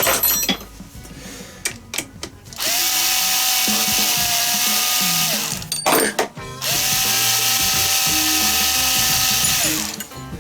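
A power tool's motor runs twice at a steady speed, each run lasting about three seconds. The first run starts about two and a half seconds in, with a short pause between the two runs. Each run spins up and winds down at its ends.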